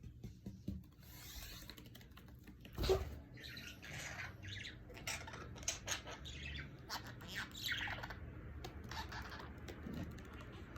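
Budgerigar chirping and chattering in a rapid run of short notes, with one louder sharp sound about three seconds in.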